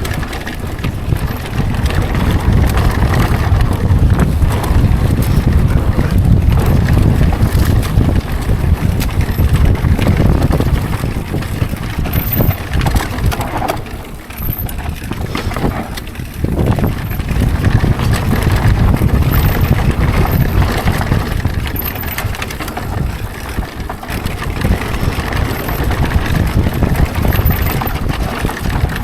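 Mountain bike riding a dirt trail: heavy wind rush on the microphone, with tyres on dirt and the chatter and rattle of the bike over rough ground. The noise drops away briefly twice near the middle.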